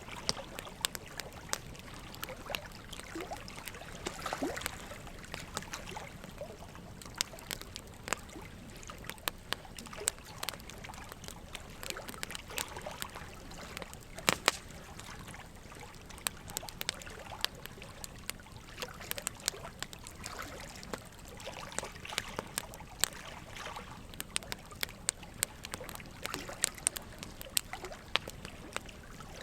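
Campfire crackling: irregular sharp pops and snaps over a soft, steady hiss, with one louder pop about halfway through.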